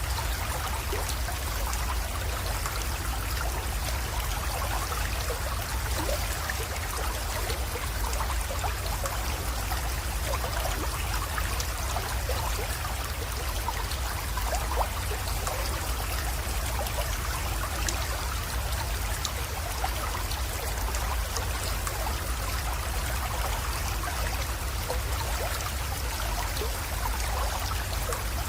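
A small creek flowing steadily, with a continuous trickle and fine splashing of water.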